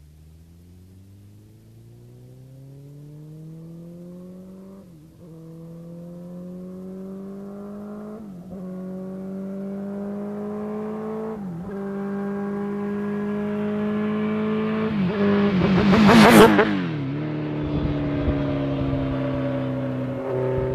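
Suzuki GSX-R1000 inline-four sport bike with a Yoshimura exhaust, accelerating hard toward and past the listener. It runs up through the gears, with the revs climbing and dropping at each shift about every three seconds, and grows steadily louder. It passes at about 100 mph some sixteen seconds in, at its loudest, and the pitch then drops as it pulls away.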